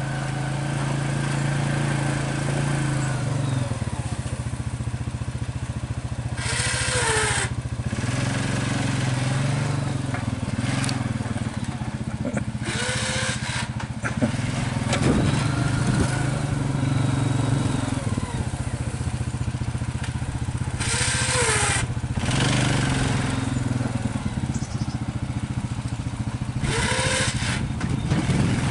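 Small gasoline engine of an old snow-clearing machine running steadily as it works through heavy snow, its pitch shifting now and then with the load. Four short bursts of hiss break in over it.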